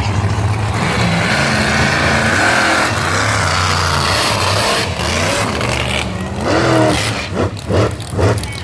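Monster truck engines rumbling as the trucks drive into the arena, with louder uneven surges of revving in the last two seconds.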